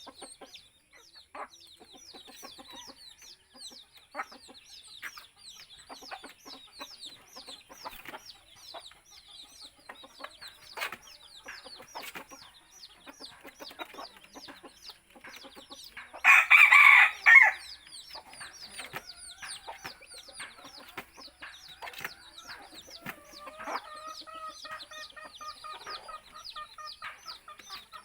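Chickens clucking, with many short high calls repeating throughout. A rooster crows loudly once, past the middle, and a longer, quieter crow comes near the end.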